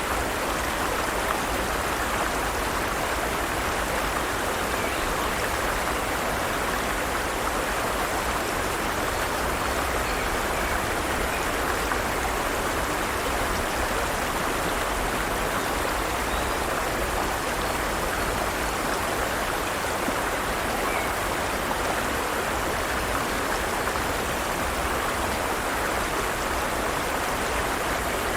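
Forest stream's water flowing over rocks: a steady, even rush of running water.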